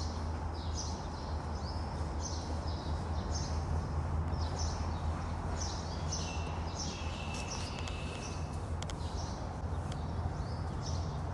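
Small birds chirping: short, high calls repeating every half second or so, over a steady low hum.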